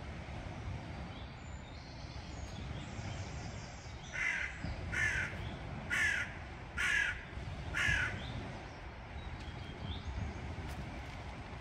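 A large bird giving five loud, harsh caws, about one a second, over a steady low rush of wind and surf.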